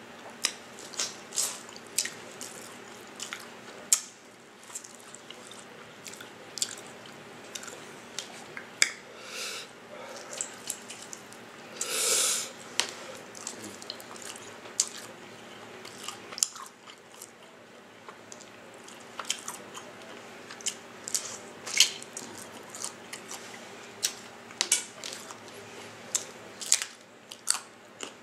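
A person biting and chewing food close to the microphone: irregular crisp crunches and wet mouth clicks. A longer noisy burst comes about twelve seconds in.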